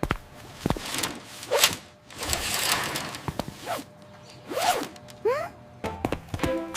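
Cartoon sound effects: a series of whooshes and sharp clicks with short sliding pitched sounds between them. Steady musical tones come in near the end.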